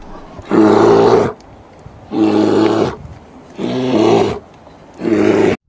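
Brown bear giving four loud, pitched calls of under a second each, spaced evenly about a second and a half apart. The last call cuts off suddenly near the end.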